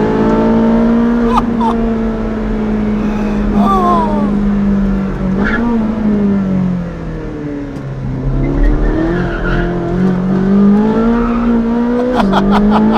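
Ferrari 458 Speciale's naturally aspirated V8 running through a Novitec sport exhaust under driving, its note holding high, falling away through the middle and then climbing again. Near the end the pitch drops abruptly, as at a gear change, with a quick run of sharp crackles.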